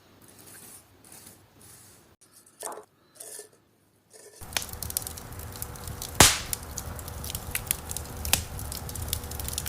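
Small wood fire crackling in a miniature fireplace: it starts suddenly about four seconds in, a steady hiss with irregular pops and clicks and one louder snap about two seconds later.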